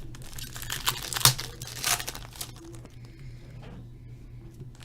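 Trading-card pack wrappers crinkling and tearing as packs are ripped open, with the loudest rips in the first two seconds and quieter crinkling after. A steady low hum runs underneath.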